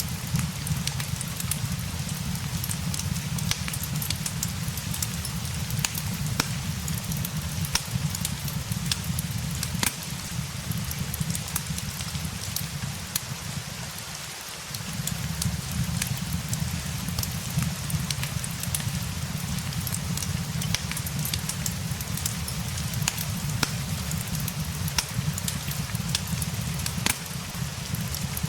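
Steady rain mixed with a crackling fireplace: a constant hiss over a low rumble, with scattered sharp crackles throughout. The low rumble fades for a moment about halfway through.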